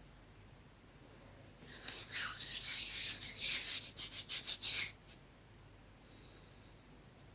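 Soft green gym chalk being crushed, a crunchy, gritty scraping that turns into a quick run of separate crunches and stops about five seconds in.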